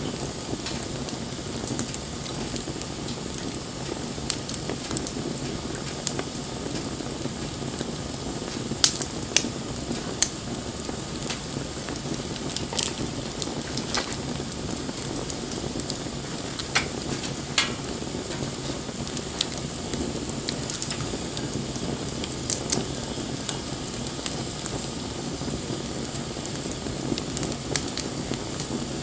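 Wood fire burning with a steady rushing hiss and scattered sharp crackles and pops, a few of them louder. A faint thin high whistle sounds for several seconds partway through.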